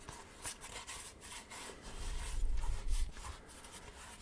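Short rubbing and scratching strokes close to the microphone, several in a row, with a low handling rumble around the middle.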